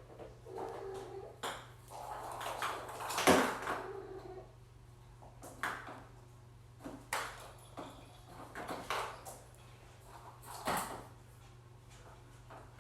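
Scattered clacks, knocks and rattles of kittens batting plastic Easter eggs filled with pennies and pine litter, with the loudest knock about three seconds in. A cat gives a few short chirps among them.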